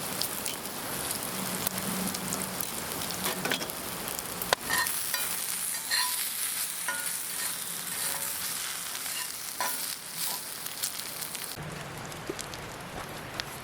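Thick pork sizzling in a hot cast-iron skillet, with scattered sharp pops of spattering fat. Near the end the hiss suddenly quiets.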